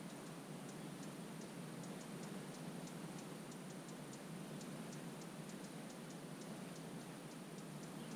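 Faint wetland ambience: a steady low background hush overlaid by a quick, irregular run of light high-pitched ticks, about three or four a second.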